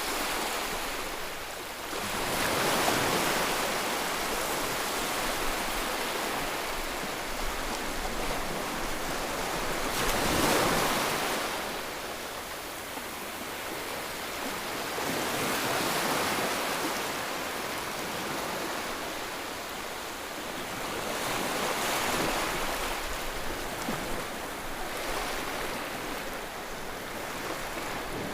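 Baby-soothing white noise: a steady rushing hiss that swells and eases in slow surges every five or six seconds, like waves breaking.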